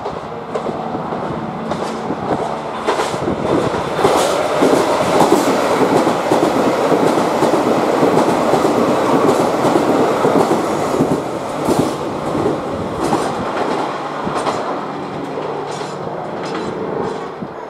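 JR Hokkaido KiHa 261 series 5000 'Lavender' diesel express train passing a station platform: diesel engines running and wheels clattering over rail joints. It grows loud about four seconds in as the cars go by, then eases off as the train moves away.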